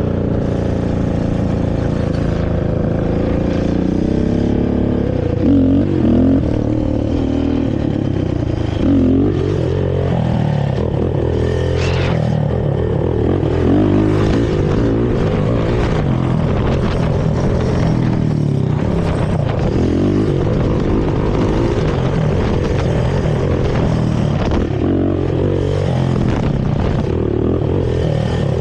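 Carbureted Honda TRX450R quad's single-cylinder four-stroke engine through its stock exhaust, revving up and down repeatedly while riding.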